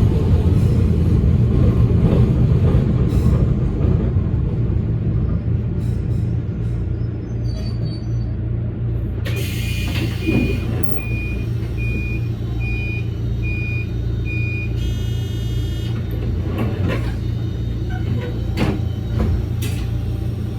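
Toyama Chihō Railway electric train running along the track: a steady low rumble of wheels and motors, a little louder in the first few seconds. About halfway through, a high beep repeats steadily for about five seconds, then a short buzzing tone sounds.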